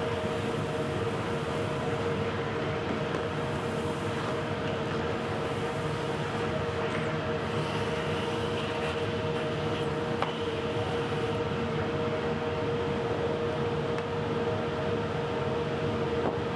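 Makita router on a Onefinity Elite Foreman CNC machine running steadily, a constant high hum over a rushing noise, with a faint tick about ten seconds in.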